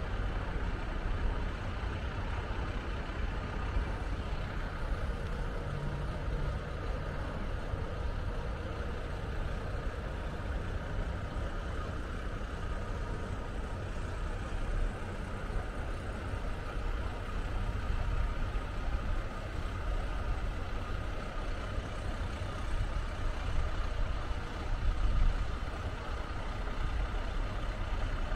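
Sanriku Railway diesel railcar heard from inside the passenger cabin: a steady low rumble of the engine and running gear.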